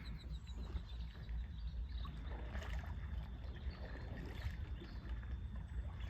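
Water lapping and trickling against the hull of a kayak, with small scattered splashes over a steady low rumble.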